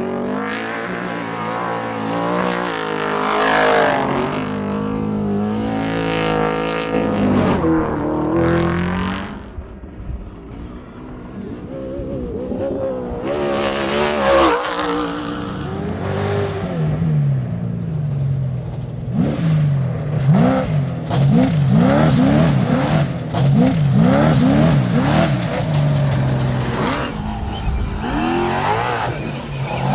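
Off-road race truck engines running hard, with loud pass-bys about four and fourteen seconds in, and a run of quick repeated rising revs in the second half.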